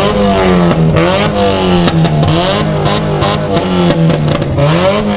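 Car engine revved hard again and again through a loud exhaust, its pitch climbing and dropping about once a second.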